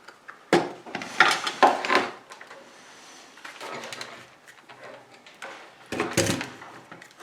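Tools and small objects handled on a workbench: a few knocks and clatters, with a cluster about a second in and a louder thump near the end.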